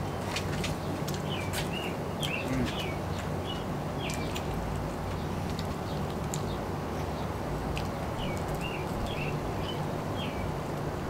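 A songbird singing a short phrase of several chirped notes, twice: once about a second in and again near the end. Underneath is a steady low outdoor rumble with scattered faint clicks.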